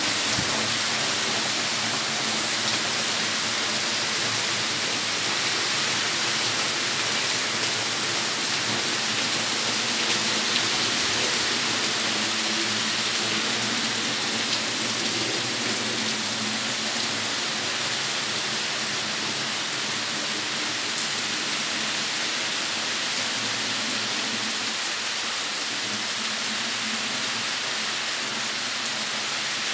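Steady rain falling, an even hiss of rain on the ground and plants.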